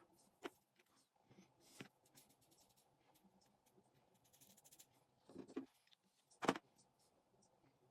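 Scattered light clicks and taps of small fishing reel parts and tools being handled during a repair. The loudest tap comes about six and a half seconds in.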